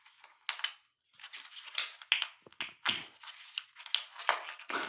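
Irregular sharp crackles and snaps, a dozen or so, from the small speaker that has just been blown up on mains power, most likely its charred paper cone and wiring being handled. A louder cluster comes near the end.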